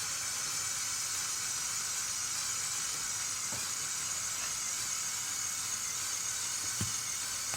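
Small Lego electric motors and plastic gearing whirring steadily as a Lego Technic tractor pulls a weighted sled, heard as an even high-pitched hiss. Two faint ticks come partway through.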